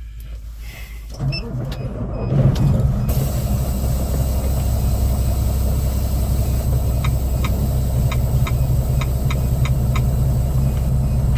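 Semi-truck diesel engine running, growing louder about two seconds in and then holding steady. A run of light clicks comes a little past halfway.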